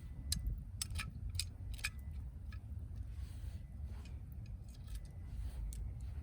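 Wood fire crackling: scattered sharp pops and snaps, bunched in the first two seconds and sparser after, over a low steady rumble.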